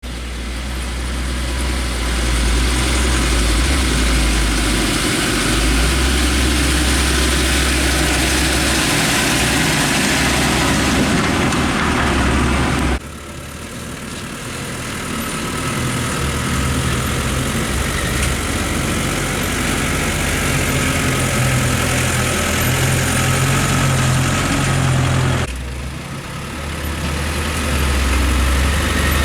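Heavy diesel construction-machine engines running steadily. The level drops suddenly twice, about halfway through and near the end, then builds back up.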